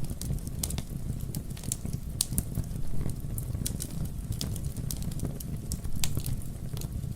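Campfire burning with irregular sharp crackles and pops from the wood over a steady low rumble of the flames.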